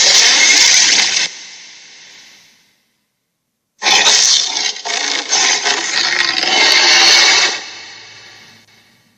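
Electronic toy playing two recorded sound effects, both loud and rushing. The first cuts off a little over a second in and fades out. The second starts at about four seconds and trails away near the end.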